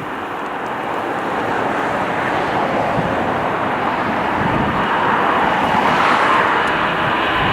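Jet engines of a wide-body airliner: a steady rushing roar that grows slowly louder.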